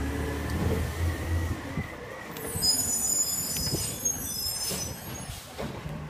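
Garbage truck running with a low engine hum, then a high-pitched metallic squeal lasting about two seconds, with a few knocks.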